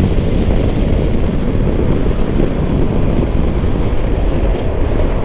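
Steady wind rush and road noise on a motorcycle rider's camera microphone while riding at speed.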